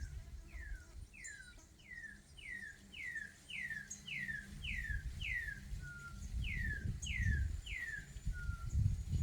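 A campo troupial (corrupião) singing: a run of about fourteen clear whistled notes, about two a second, each sliding down in pitch. A low rumble lies underneath.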